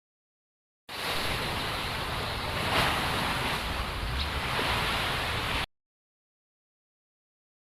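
A steady rushing noise with a heavy low rumble, like surf or wind buffeting a microphone, about five seconds long. It starts and stops abruptly, with dead silence on either side.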